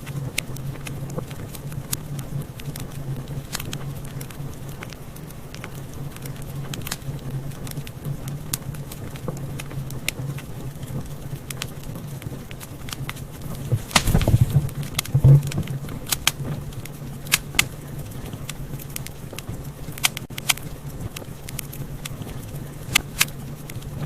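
Wood fire crackling in a fireplace: a steady stream of sharp small snaps and pops over a low steady rumble, with a louder cluster of pops a little past the middle.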